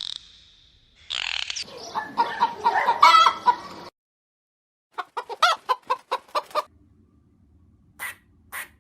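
Chickens clucking: a dense run of short calls, then a sudden break of silence, then a quicker series of about eight short clucks. Two short sharp clicks come near the end.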